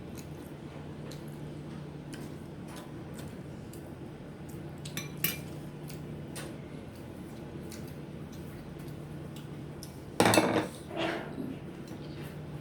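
Dishes and serving utensils clinking on plates and bowls during a meal: scattered light clicks, a sharper clink about five seconds in, and a short loud clatter about ten seconds in followed by a smaller one.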